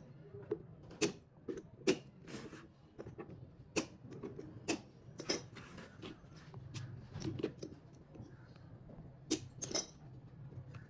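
Irregular sharp clicks and light taps from hands-on work on battery cells, over a low steady hum.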